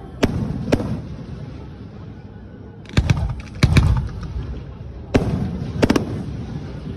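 Aerial firework shells bursting in a series of sharp booms, each trailed by an echo. Two come right at the start, a loud cluster of several falls about three to four seconds in, and two more come near the end.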